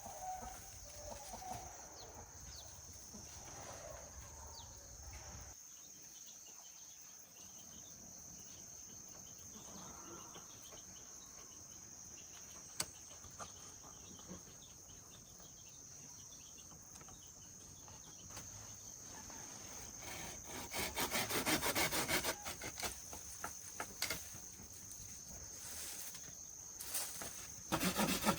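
A steady high-pitched insect drone throughout. From about twenty seconds in, a rapid, rhythmic rasping scrape, like sawing or rubbing, becomes the loudest sound.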